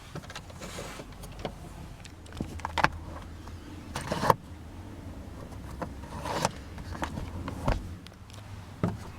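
Scattered clicks, knocks and handling rustles inside a parked car's cabin, over a low steady hum.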